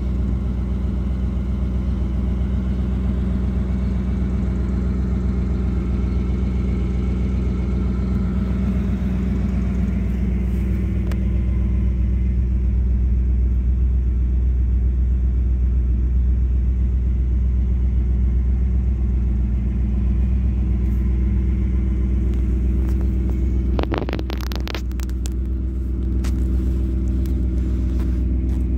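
1984 Pontiac Firebird's L69 5.0-litre V8 idling steadily. About four seconds before the end there is a brief cluster of clicks.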